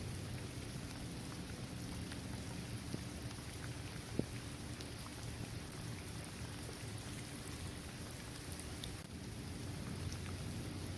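Steady rain falling on a paved basketball court, trees and grass, a constant hiss with faint scattered drop ticks. One sharper tick stands out about four seconds in.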